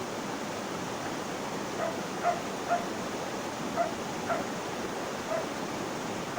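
Steady rush of flowing water, with a dog giving six short, sharp barks between about two and five and a half seconds in.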